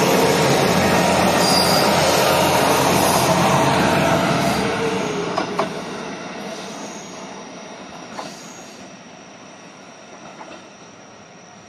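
Three-car Shimabara Railway diesel railcar train passing close and pulling away: loud running and wheel noise for the first four seconds, then fading steadily as it recedes, with a few single clacks of wheels over rail joints.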